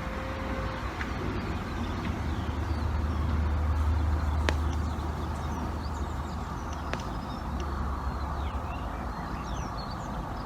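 A low rumble that swells for a few seconds and fades, with small birds chirping from about halfway on and two faint clicks.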